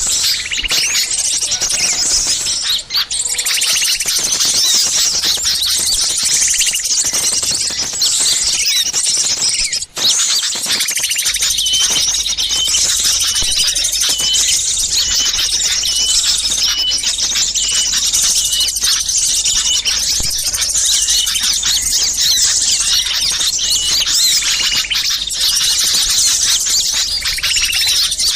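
A recorded chorus of many small songbirds chattering and calling at once, a dense mass of high chirps, played as a lure to draw wild birds in. There is a brief break about ten seconds in, and after it one bird repeats a short, even note for several seconds.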